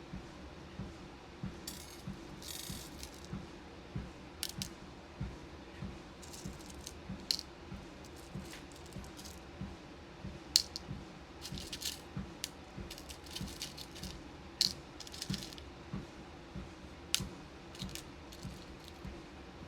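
Small beads clicking and rattling as they are handled and sorted, in irregular sharp clicks and short rattles. Underneath, steady footfalls on a walking pad, soft thuds about three every two seconds, over the pad's low motor hum.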